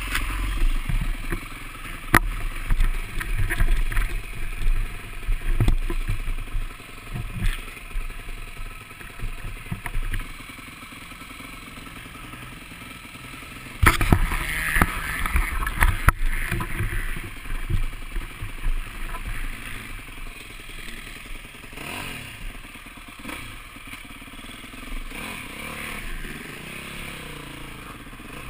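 Motocross bike ridden over a track, heard through an onboard camera: the engine running under wind buffeting on the microphone, with sharp knocks and clatter as the bike hits bumps and lands, loudest at the start and again about halfway through.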